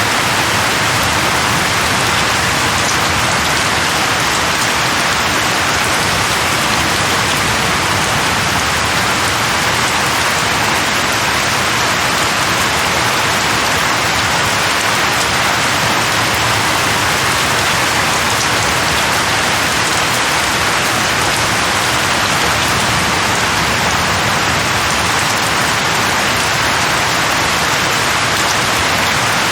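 Steady rain falling on leaves, an even hiss that holds constant without thunder.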